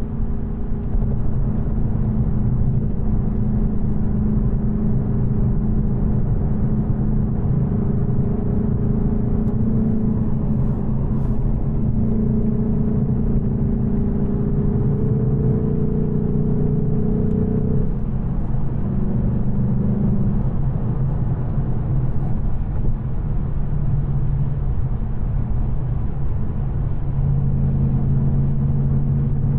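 2024 Mustang GT's 5.0-litre Coyote V8, on its stock headers, running steadily while cruising under a low rumble of road noise. Its engine note drops in pitch about two-thirds of the way through and settles lower near the end.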